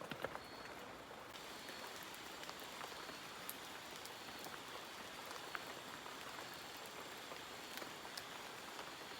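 Steady rain falling, with scattered individual drops ticking down close by; the hiss thickens a little about a second in.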